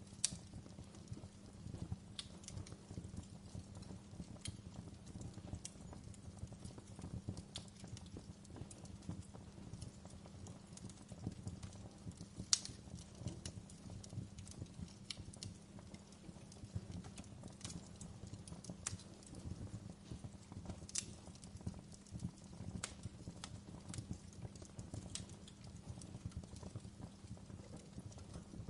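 Campfire burning, with irregular crackles and sharp pops over a low, steady rumble of flame. One pop about twelve seconds in is louder than the rest.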